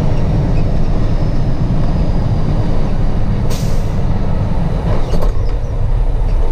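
Truck engine and road noise as a steady low rumble, with a short hiss about halfway through.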